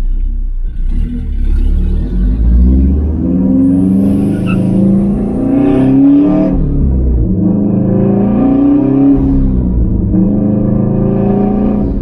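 Subaru WRX STI's turbocharged EJ25 flat-four engine accelerating through the gears, heard from inside the cabin: the revs climb, fall at a gear change about seven seconds in, climb again, fall at another change near ten seconds, then climb once more.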